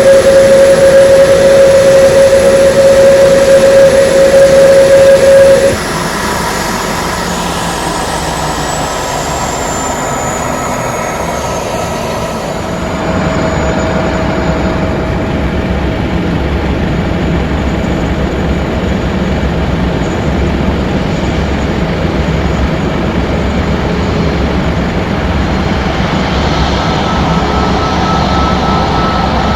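Jet aircraft engines running: a strong steady whine that drops sharply in level about six seconds in, then a high whine falling slowly in pitch, over a steady rumble that grows a little louder later on.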